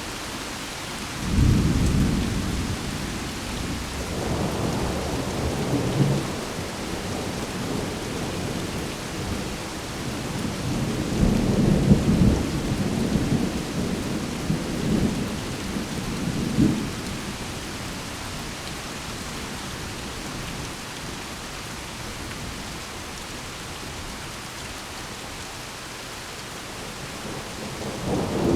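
Thunder rumbling over steady rain: a deep rumble breaks out about a second in, rolls on in waves with a couple of sharper cracks in the middle, then dies away, and a new rumble starts near the end.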